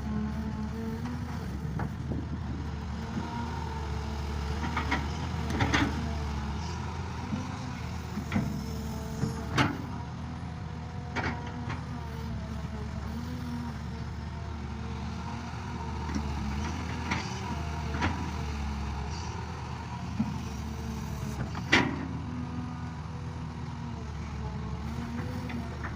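Engine of a field-working farm machine running steadily, with occasional sharp knocks or clanks, the loudest near the end.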